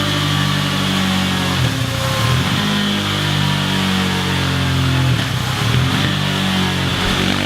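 KTM Duke 390's single-cylinder engine running steadily at low revs through a Scorpion Serket Taper aftermarket exhaust, its note wavering briefly about two seconds in and again about five seconds in.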